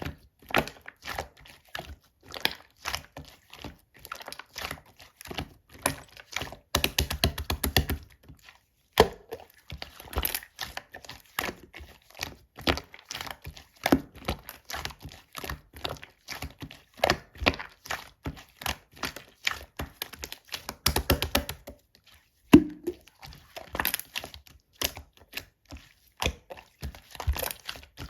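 Purple slime being squished and stretched by hand, giving irregular sticky clicks and pops, with fast runs of popping about a quarter of the way in and again about three quarters through.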